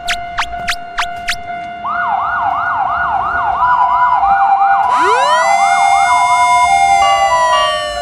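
Electronic siren-like sound effect: a fast rising whoop repeated about two and a half times a second, with steady two-note beeps over it. About five seconds in, a loud upward swoop levels off, and falling tones follow near the end. A rhythmic tapping beat fills the first two seconds.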